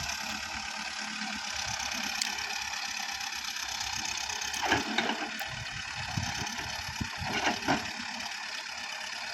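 Engine running steadily at idle, with a few short louder clatters about five seconds in and again near the end.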